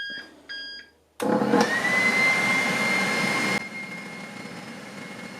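Tefal ActiFry 2in1 air fryer switched on: two short electronic beeps, then the fan motor starts with a whine that rises and settles into a steady hum. About three and a half seconds in, the noise drops to a quieter level.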